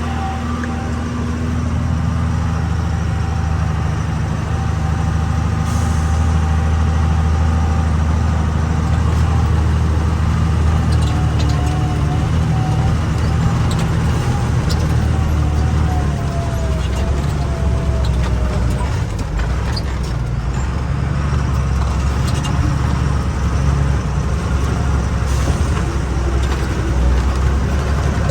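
Truck engine running steadily under load while the truck climbs a mountain road, with a few knocks and rattles now and then.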